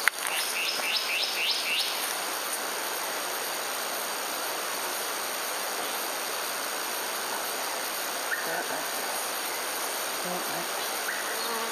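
A bird calls a quick run of about six short rising whistled notes in the first two seconds, followed by a steady outdoor hiss with only faint scattered sounds.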